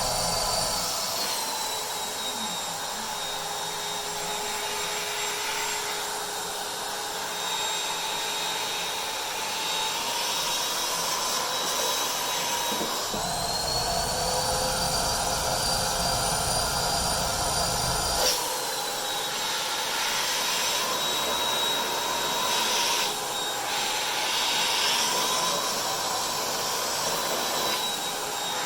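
Vacuum cleaner motor running with a steady whine. For several seconds about halfway through, the whine rises in pitch and a low rumble joins it, then both drop back.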